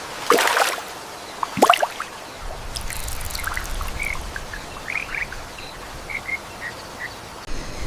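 Rainforest ambience: a steady hiss with scattered short, high chirps of small animals. A brief loud rush and a quick falling sweep come in the first two seconds.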